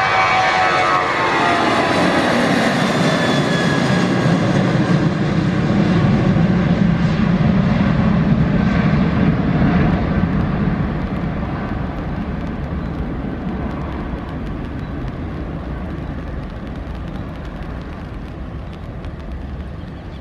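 Boeing 737-800's CFM56 turbofan engines at takeoff thrust as the jet climbs out past, their whine sliding down in pitch in the first few seconds. The roar then fades steadily over the second half as the aircraft moves away.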